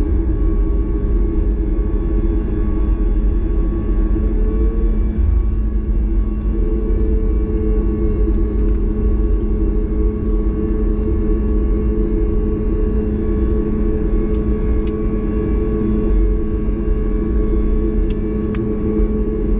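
Cabin noise of a Boeing 737 MAX 8 with its CFM LEAP-1B turbofans under power: a loud, steady low rumble with a steady engine hum. One tone of the hum rises slightly about five seconds in and holds at the higher pitch.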